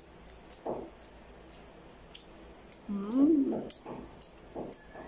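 Children chewing soft bread, with wet smacking and clicking mouth noises. About three seconds in comes a short vocal sound that rises and falls in pitch, the loudest moment.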